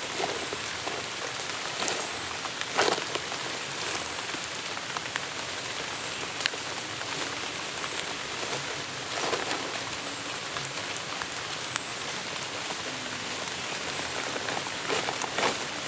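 Heavy rain falling steadily, a dense even hiss, with a few louder splashes or drops standing out about three seconds in, around nine seconds, and near the end.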